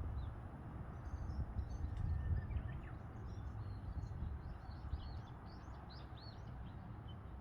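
Small birds chirping and twittering in quick runs of short, high notes, over a steady low background rumble.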